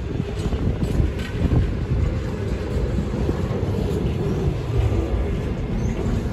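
Container freight train's wagons rolling past: a steady rumble of steel wheels on rail with scattered knocks and clatter.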